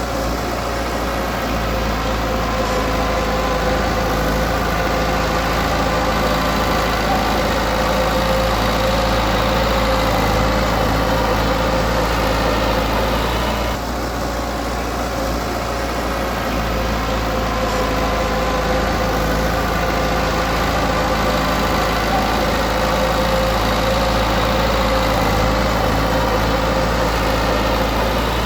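Diesel engine of heavy earthmoving equipment running steadily, with a brief dip in level about halfway through.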